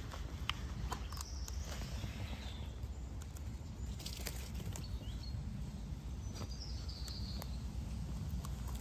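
Birds chirping a few times, about a second in and again near the end, over a steady low rumble, with scattered light clicks and taps.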